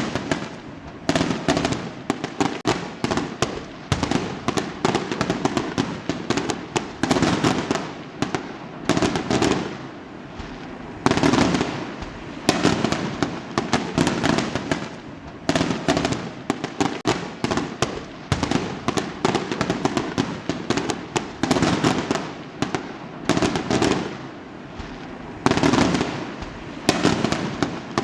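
Fireworks going off in rapid succession: dense crackling and sharp bangs coming in clusters, a new cluster every second or two.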